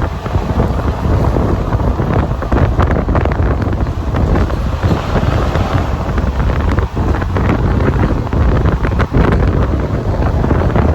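Wind buffeting the microphone on a moving passenger train, over the train's steady running noise, with many short knocks throughout.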